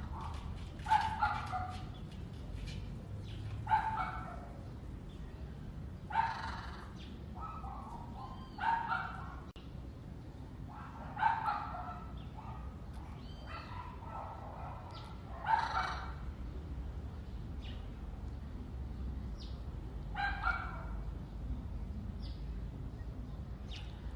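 Parrot giving short, bark-like calls, one or two at a time every few seconds, over a steady low rumble.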